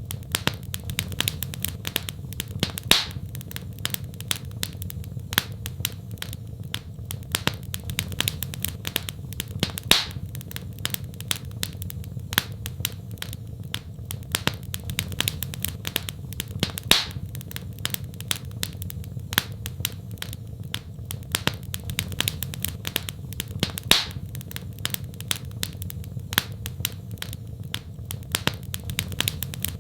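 Wood fire in a fireplace crackling: many small snaps and pops, a few louder ones, over a steady low rumble of burning.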